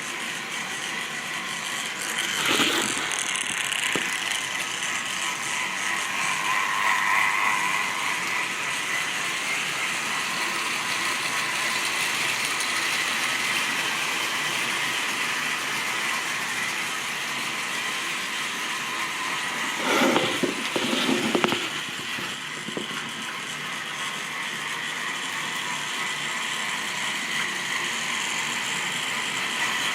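Model railway train running on the track: a steady whirring clatter of small wheels and motor gearing. It grows louder and rattlier briefly about two seconds in and again around twenty seconds in.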